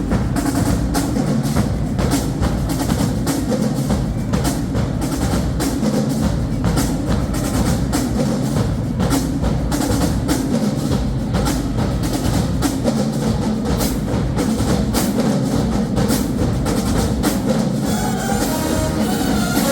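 Marching band drumline playing a fast cadence on snare and bass drums. Near the end the horns come back in.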